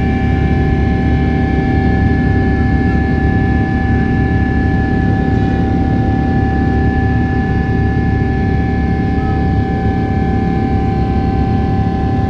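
Jet airliner's engines running steadily: a loud, even rumble with several fixed whining tones above it.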